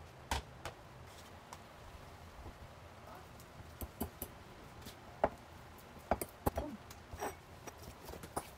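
Scattered light clicks and taps in a small room, irregular and a few at a time, growing busier after about three and a half seconds.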